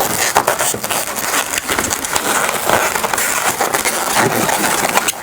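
Latex 260 modelling balloons rubbing and squeaking against each other as one is twisted and wrapped around a pinch twist, a dense run of short squeaks and rubbing.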